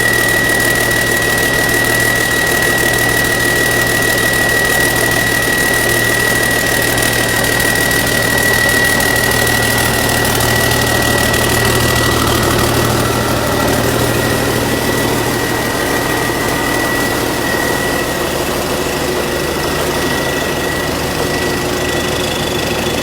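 Diesel engine running steadily at idle with a knocking clatter, a steady high-pitched whine running alongside it.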